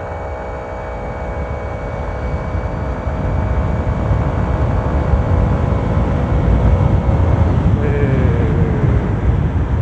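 Honda PCX scooter under throttle with a high, turbo-like whine from its modified CVT, which the rider credits to the CBU CVT fan. The whine holds a steady pitch, fades about 7.5 seconds in, and is briefly followed by a lower whine that falls slightly. Wind rumble from riding, heard from inside the helmet, grows steadily louder.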